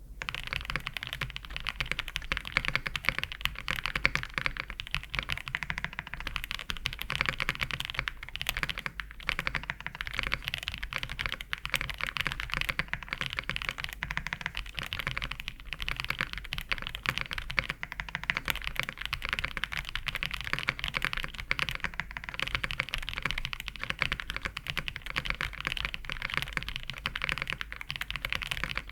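Fast, continuous typing on a Meletrix Zoom98 gasket-mount mechanical keyboard with a polycarbonate plate, factory-lubed WS Red linear switches and PBT keycaps, giving a dense stream of poppy keystrokes.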